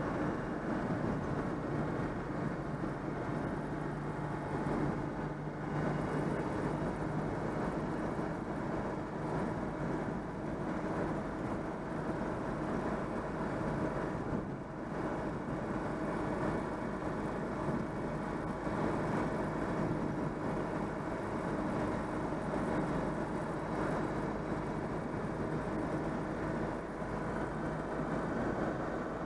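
Citroën 2CV's air-cooled flat-twin engine running steadily, freshly overhauled. The level dips briefly about halfway through.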